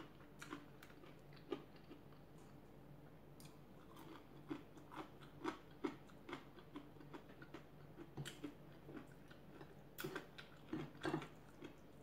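Faint, irregular chewing: soft mouth clicks and small crunches of someone eating rice with crispy lechon sisig.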